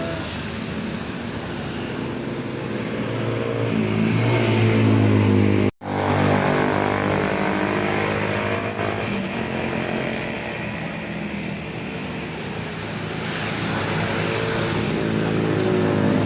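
Motorcycle engine running, revving up about four seconds in. It cuts out abruptly for a moment near six seconds, then runs on and rises in pitch again near the end.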